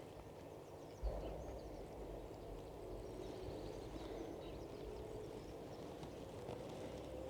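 Rural outdoor ambience: a steady low rumble with faint, scattered bird chirps, and a soft low bump about a second in.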